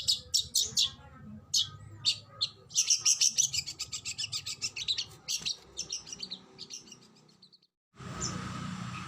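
Oriental magpie-robin (kacer) singing fast runs of sharp, high notes, several a second, densest about three seconds in. Near the end the song stops briefly, then resumes over a steady background hiss.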